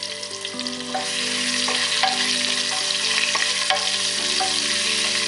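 Onion pieces and whole spices frying in hot oil in the base of a pressure cooker: a steady sizzle that grows louder about a second in, as a hand stirs the onion around.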